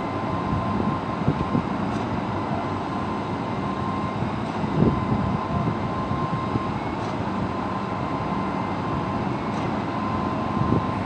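Heavy construction machinery running steadily: a continuous mechanical rumble with a faint steady whine, and a couple of brief knocks, about halfway through and near the end.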